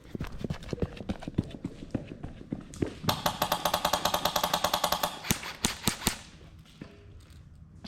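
Airsoft gunfire: scattered sharp cracks, then a rapid, even full-auto burst of about two seconds starting about three seconds in, followed by a few single shots.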